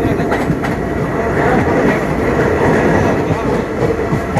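Passenger train running on the rails: a steady loud rumble with wheel clatter.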